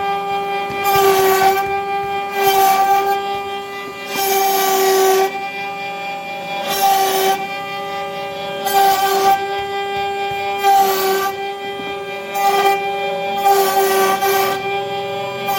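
CNC router spindle running with a steady high whine while its bit cuts wood, the hissing cutting noise swelling and fading every second or two as the tool passes through the carving.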